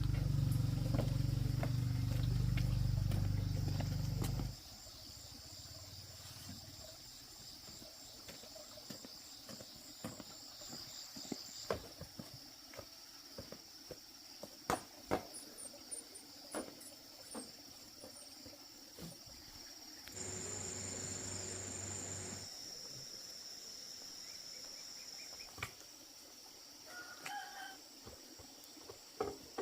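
Farmyard ambience: a steady high insect drone with scattered clicks and a short chicken call near the end. A motor runs loudly for the first four seconds and again for about two seconds around two-thirds of the way through.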